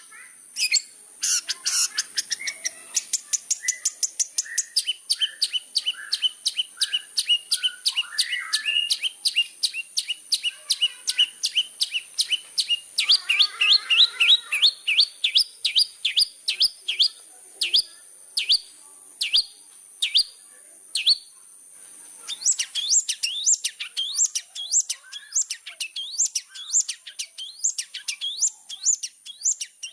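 Long-tailed shrike (cendet) singing in full voice: a long, rapid series of sharp, downward-sweeping chips, several a second. The notes slow and pause briefly about two-thirds of the way in, then pick up pace again.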